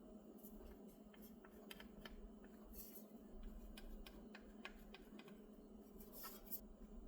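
Faint, irregular light clicks and taps over a low steady hum, as from small hand work.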